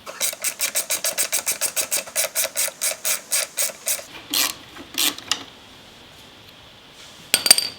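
Hand-tool work on bare motorcycle metal: a fast, even run of clicks, about eight a second, for nearly four seconds, then a few single clicks. Near the end comes a sharp metallic clink that rings briefly.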